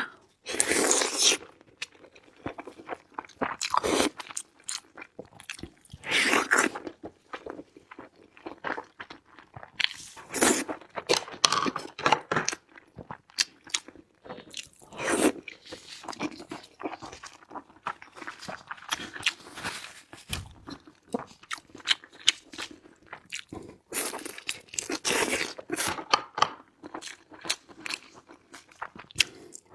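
Close-miked eating: loud crunchy bites and wet chewing, coming irregularly with a few louder crunches every few seconds.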